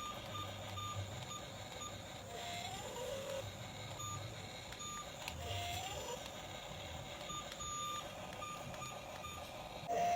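Vehicle reversing alarm beeping steadily, about two or three beeps a second. Two short rising tones sound over it, about two and a half and five and a half seconds in.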